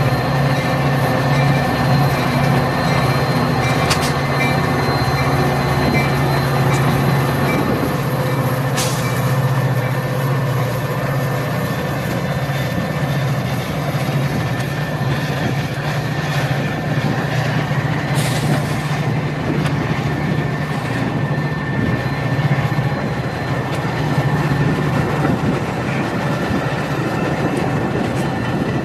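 A train rolling past on the tracks: a steady rumble of wheels on rail over a low, steady hum, with a few sharp clicks from the wheels.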